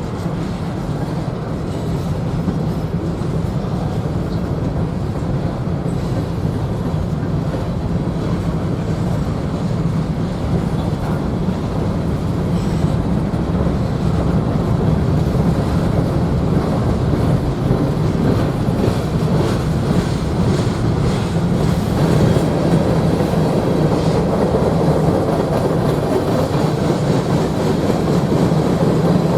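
A train rolling past on the rails with a steady rumble that grows gradually louder through the second half.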